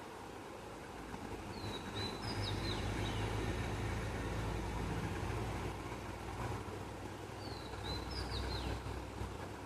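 A songbird sings the same short phrase of quick, high whistled notes twice, about six seconds apart, over a low rumble that swells and fades.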